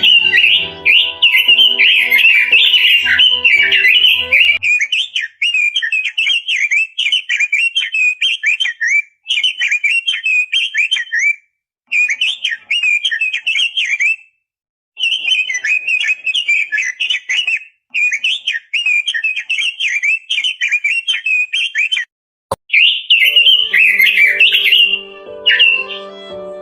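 Red-billed leiothrix singing a long, fast warbling song in phrases with short pauses. A steady low hum of several tones runs under it for the first few seconds and again near the end, and there is a single sharp click a little before the hum returns.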